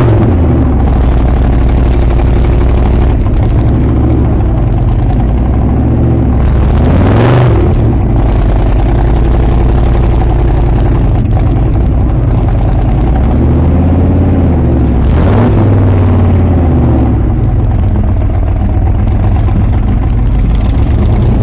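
Large engines of modified snow trucks on big tires running loudly under load, a steady low drone broken three times by revving swells that rise and fall in pitch, about seven to eight seconds apart.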